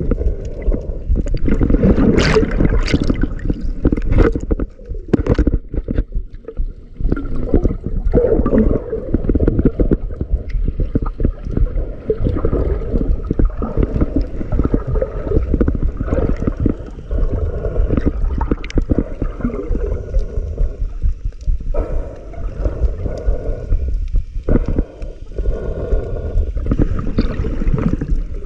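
Sea water sloshing and gurgling heard underwater, muffled and low, with many irregular bubbling pops and knocks.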